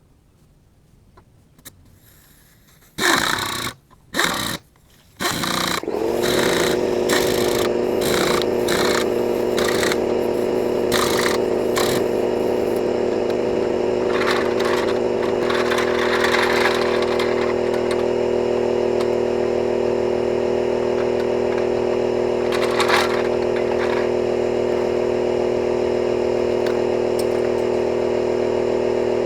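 Air compressor starting up about five seconds in and then running steadily, with irregular rattling over its first several seconds; two short loud bursts come just before it starts.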